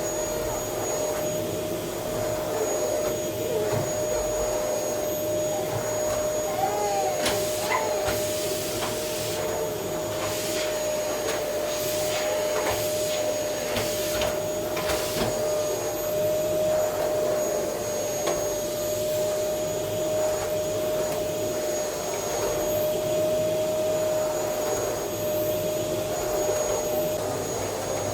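Vacuum cleaner running steadily with a constant whine over its rushing noise, with a few brief knocks or rustles partway through.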